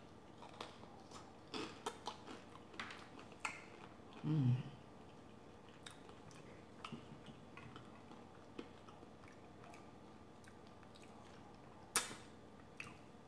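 Chewing and biting into a fried cream cheese rangoon, with crisp mouth crackles and clicks in the first few seconds and a short hummed "mm" about four seconds in, then quieter chewing. A single sharp click comes near the end.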